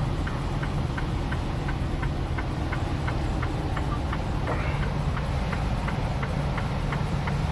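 Semi truck driving slowly on chained drive tires, heard from inside the cab: a steady low rumble with a light tick repeating about three times a second.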